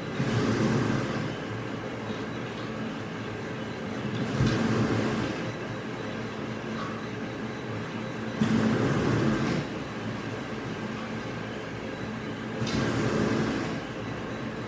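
Machinery running steadily with a constant hum, while a louder, noisy whoosh of about a second repeats four times, roughly every four seconds, like a regular machine cycle.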